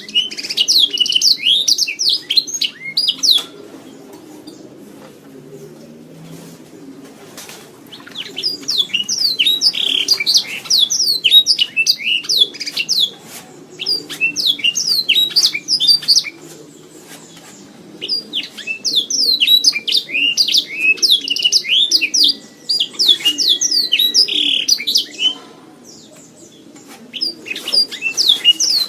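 Domestic canary singing in long bursts of rapid chirps and trills, with pauses of a few seconds between phrases.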